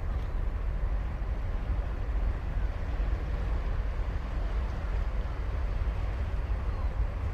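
Ocean surf on a sandy beach: a steady low rumble of breaking waves with a fainter hiss of wash over it.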